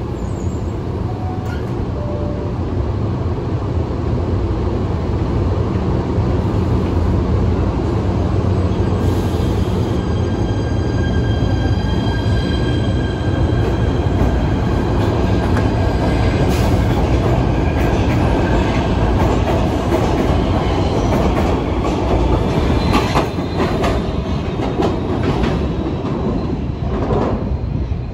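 PATH PA5 rapid-transit train running through the station with a continuous heavy rumble of wheels on rail. High steady wheel squeal sounds through the middle stretch, then a rising whine with a few sharp clacks near the end.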